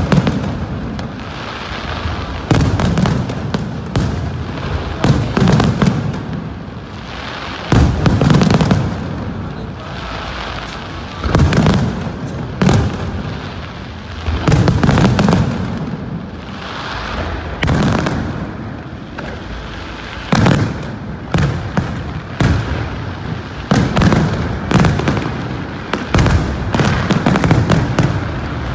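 Aerial fireworks display: shells bursting in a string of deep booms every one to three seconds, with sharp crackling and popping in between.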